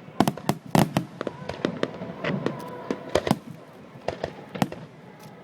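Fireworks bursting in an irregular run of sharp bangs, several a second, thinning out near the end.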